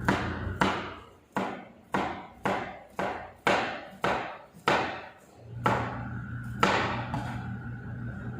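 Knife chopping on a wooden cutting board, about a dozen heavy strokes at roughly two a second.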